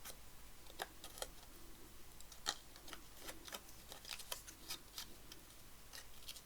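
Ink dauber dabbed around the edges of a paper tag: faint, irregular light taps, several a second, one a little stronger about halfway through.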